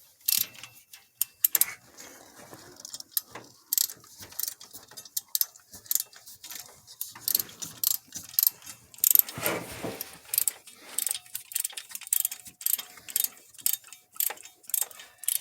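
Hand ratchet on a spark plug clicking in short, irregular bursts as the plug is worked back and forth with a swivel head and short extension.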